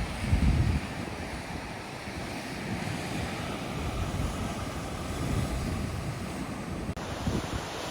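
Surf washing steadily, with gusts of wind buffeting the microphone, strongest in the first second. A brief dropout about seven seconds in.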